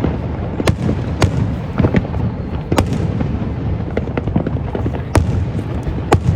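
Fireworks display: a rapid, irregular string of sharp bangs and cracks from bursting aerial shells over a continuous low rumble.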